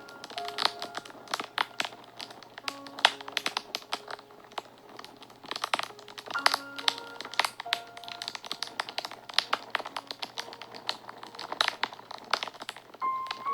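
Fire crackling and popping in quick irregular clicks, with sparse held notes of soft background music over it.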